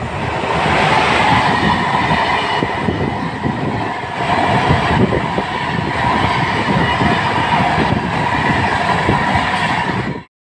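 Electric-hauled passenger train passing close at speed: the coaches' wheels run and clatter steadily over the rails. The sound cuts off suddenly about ten seconds in.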